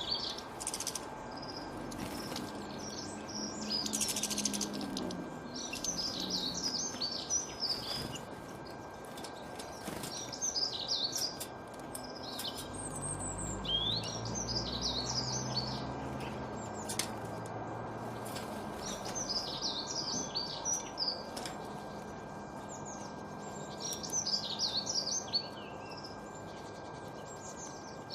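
A songbird singing short, high, rapid warbling phrases, each about a second or two long, repeated every few seconds over a steady background hiss.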